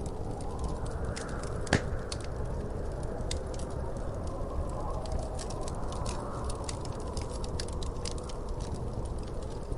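Wood fire in a fireplace crackling, with frequent small snaps over a steady low noise of the burning and one loud pop a little under two seconds in.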